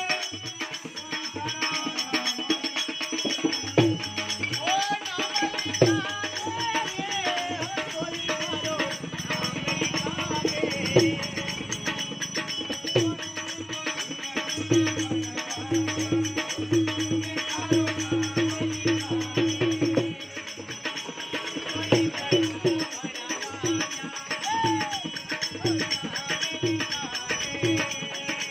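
Folk music with rattling, jingling hand percussion and a steady, quick beat.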